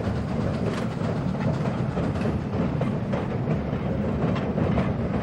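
Steady low rumble of an oil-fired steam locomotive rolling along the track, with faint light knocks.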